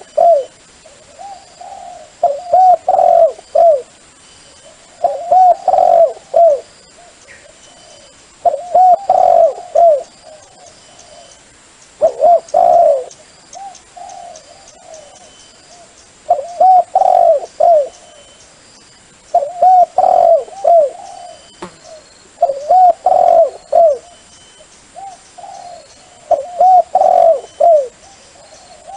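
Dove cooing: loud phrases of several quick, bubbling coos, repeated about every three seconds with softer coos in between. It is a dove call used as a lure for trapping doves.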